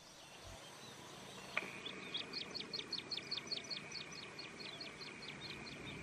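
Small bird chirping in a rapid series, about five short high notes a second, starting about a second and a half in, over a thin steady high tone.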